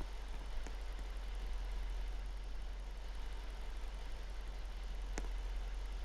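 Truck engines idling with a steady low rumble, and a sharp click about half a second in and another about five seconds in.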